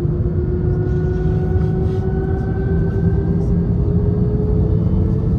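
Airliner cabin noise of an Airbus A319-111 with CFM56 turbofans: a loud, steady deep rumble with an engine whine that rises slowly in pitch.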